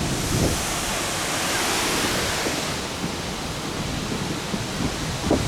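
Steady roar of Fukuroda Falls, a large waterfall 120 m high, as a wide even rush of falling water.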